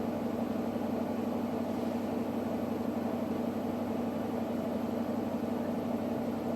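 Electrolux WD41A84160 washing machine running during its rinse and final spin programme, with a steady, even hum.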